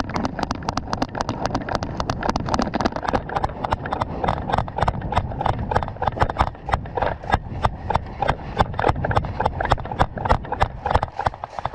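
Running footsteps on the ground, an even beat of about three to four footfalls a second.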